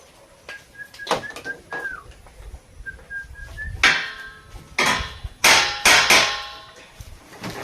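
Metal struck hard five times in quick succession, starting about four seconds in, several of the clanks ringing on briefly.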